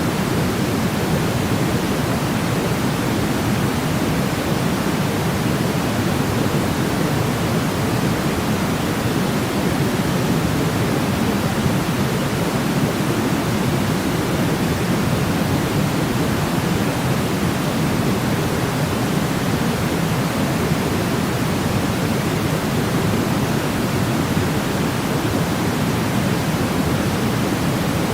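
Steady sleep noise of the pink-noise kind: an even, unchanging rushing hiss, heavier in the low end than the high.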